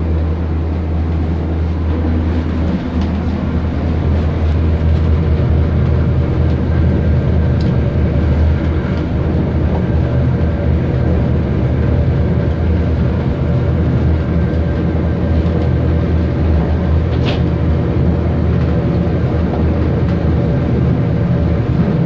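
Diesel passenger train running at speed, heard from inside the carriage: a steady low drone under an even rumble of wheels on the track. A brief sharp high sound cuts through about three-quarters of the way in.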